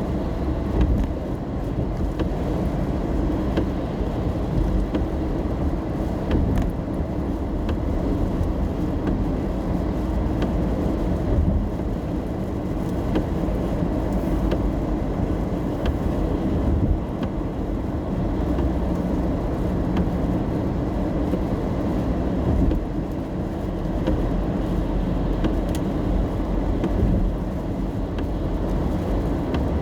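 Steady rumble of a car driving in the rain, heard from inside the cabin: low tyre and engine noise on the wet road, with a few faint scattered ticks.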